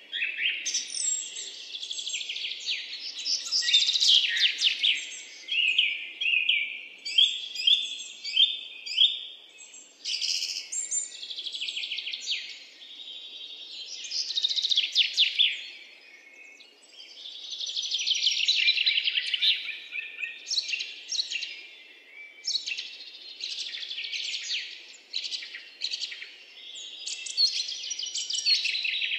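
Songbirds singing: a dense, continuous run of chirps and rapid trills from several birds, with only brief lulls.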